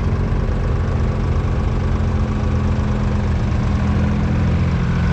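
1966 Nuffield 10/42's 2.8-litre three-cylinder diesel engine running steadily at an even speed.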